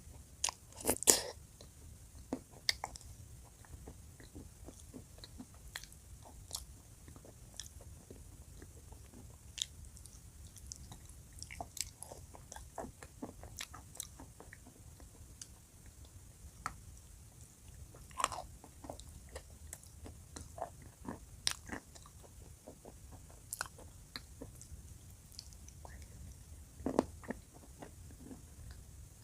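Close-miked biting and chewing of dry chalk with blue Uzbek clay paste: scattered crunches and small crackling clicks, with the loudest run of crunches about a second in.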